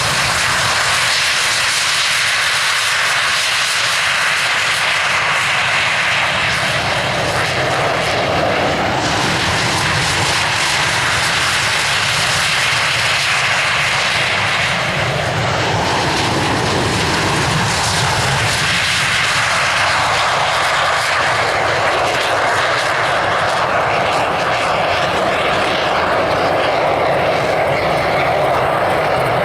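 A fixed-wing airplane's engine flying a display, loud and continuous, its sound swelling and shifting in pitch as the plane moves past, most clearly around the middle.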